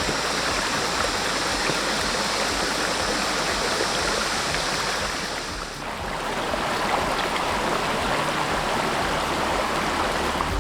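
Stream water flowing with a steady rush that dips briefly about six seconds in.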